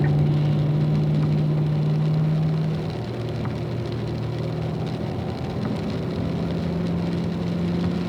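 Car engine running steadily under part throttle on a wet track, its note dropping off about three seconds in and building again near the end, with a steady hiss of rain and spray underneath.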